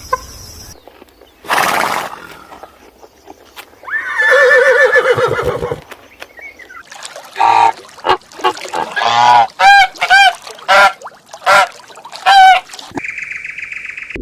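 Geese honking: a longer call, then a run of about eight short, loud honks.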